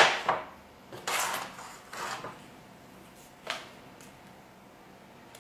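A track-saw guide rail set down with one sharp knock, then handled and shifted with a few softer scrapes and knocks.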